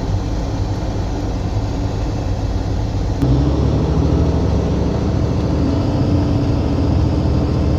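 Semi-truck diesel engine running while driving, heard from inside the cab. It is steady at first, then gets louder and its note changes about three seconds in.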